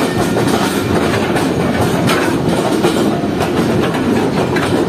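Freight train running along the track, heard from its guard van: a steady rumble and rattle of wheels on rails, with scattered short clicks.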